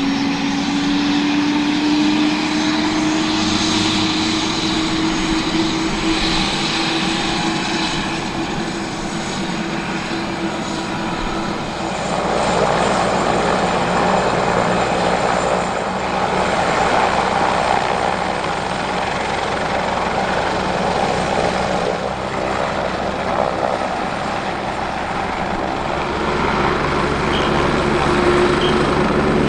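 Kawasaki BK117 C-2 helicopter's twin Arriel 1E2 turboshaft engines and four-bladed rotor running up during engine startup. A turbine whine rises slowly in pitch over the first dozen seconds, then gives way to a broader rush of engine and rotor noise. A low steady drone comes in near the end.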